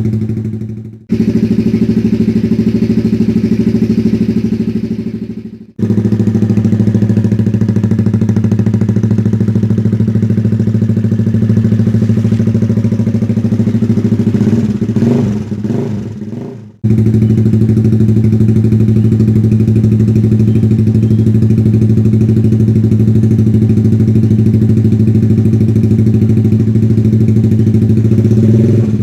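Honda Sonic 150R single-cylinder four-stroke engine idling through a Kawahara GT Pro aftermarket exhaust, a loud, deep, steady exhaust note. A few short revs come about halfway through, and the sound breaks off abruptly and resumes a few times.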